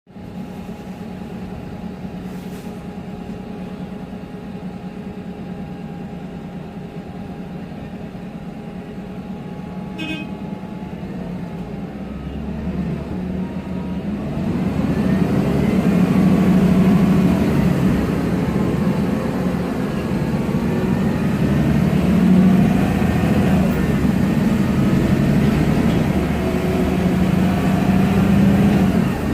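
MAN Lion's Classic city bus with a MAN E2876 CNG engine and ZF Ecomat 6HP504C six-speed automatic gearbox, running steadily at idle with a short click about ten seconds in. About twelve seconds in it pulls away and gets louder as it accelerates, its pitch rising and dropping back as it goes up through the gears.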